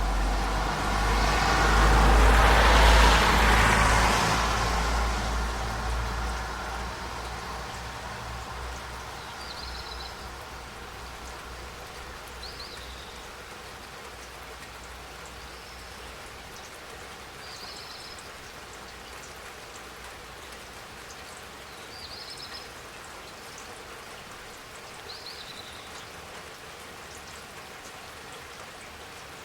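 Steady rain falling. It opens with a loud swell of deep rumble and hiss that peaks about three seconds in and fades over several seconds. Later come six short, high chirps.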